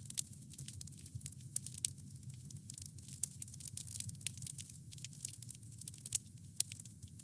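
Wood fire crackling: a rapid, irregular scatter of small sharp crackles, with a few louder pops, over a low steady rumble.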